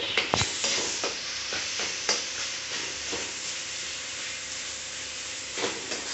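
Spiced onion, tomato and potato stuffing sizzling as it fries in a metal kadhai, stirred and scraped with a flat metal spatula, with a few sharp clinks of the spatula against the pan.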